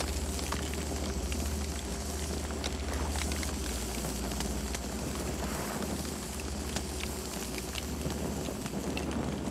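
Campfire burning, with irregular sharp crackles and pops over a steady low rumble of the flames.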